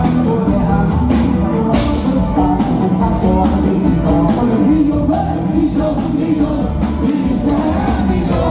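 Loud live band music with a steady drum beat and a melody line.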